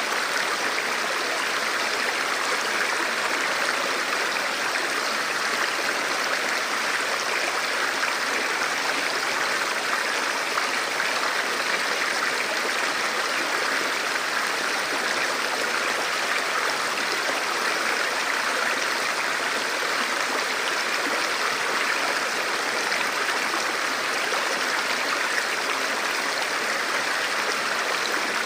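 Forest river flowing steadily over rocks, a constant even rush of water.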